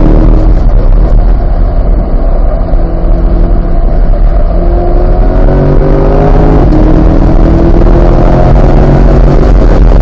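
Chevrolet C8 Corvette's 6.2-litre V8 at track pace. The engine eases off briefly early on, then accelerates hard with a rising pitch, with one upshift about two-thirds through. A heavy low rumble runs underneath.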